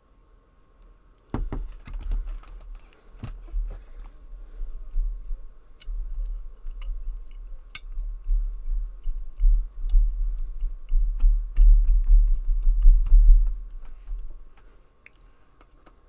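Close-miked eating of noodles: chewing with low, heavy jaw thuds and many wet mouth clicks, starting about a second in and fading out near the end.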